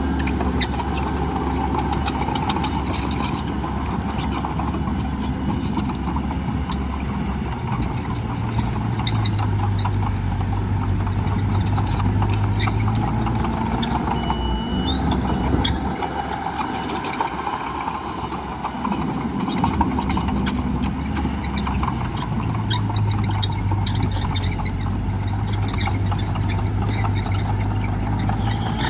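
Diesel engines of heavy earthmoving machinery running, the engine note growing stronger for a few seconds twice: about a third of the way in and again near the end.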